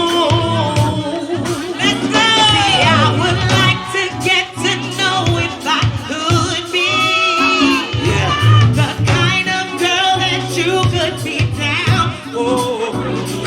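Live go-go band playing: a female singer's voice sliding and bending through long notes over a steady bass line and a regular percussion beat.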